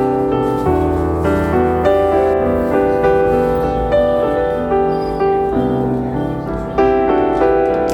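Background piano music, a gentle melody of notes changing about every half second.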